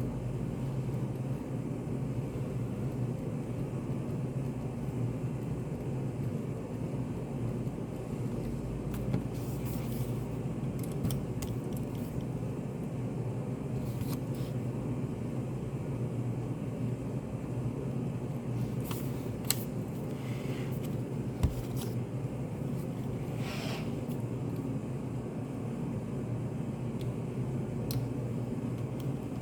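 Study cafe room ambience: a steady low hum with scattered small clicks and taps, the sharpest a little after the middle, and a couple of brief rustles.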